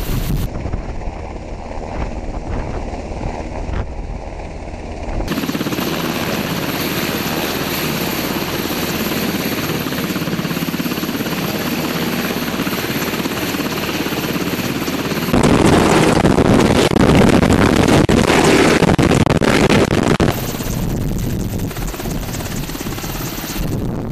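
UH-60 Black Hawk helicopter running, its rotor and twin turbine engines heard across several abruptly cut shots. The loudest stretch runs from about 15 to 20 seconds in.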